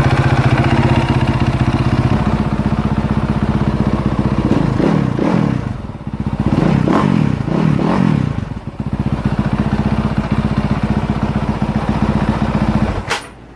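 Freshly rebuilt 2018 Honda CRF450R single-cylinder four-stroke engine idling warm on the stand, revved lightly a few times midway and settling back to idle, then shut off near the end.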